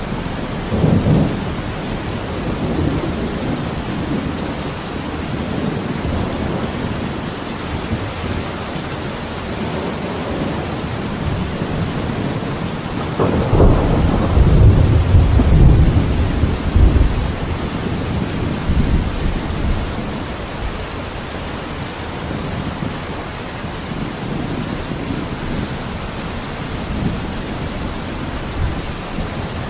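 Thunderstorm: steady heavy rain with rolling thunder, a short rumble about a second in and a longer, louder roll of thunder from about halfway through.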